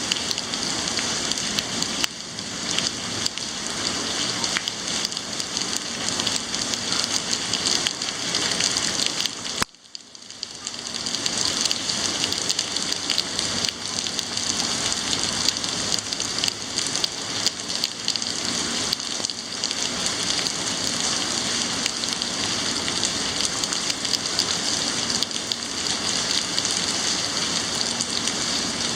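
Heavy rain falling steadily, a dense hiss of drops hitting surfaces. Just under ten seconds in the sound cuts out abruptly and swells back over about a second.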